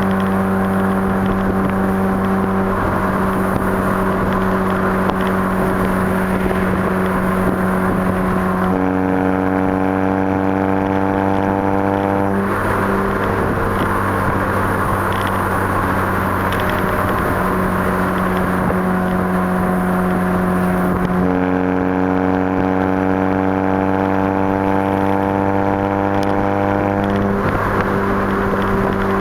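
Straight-piped exhaust of a 2004 Mini Cooper's 1.6 L Tritec SOHC four-cylinder, running at a steady speed. Twice the pitch creeps slowly upward as the revs are eased up, then drops back suddenly when the throttle is released.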